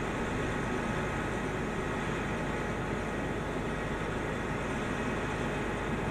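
The engine of a piece of heavy equipment running steadily, with a faint whine over a dense noise.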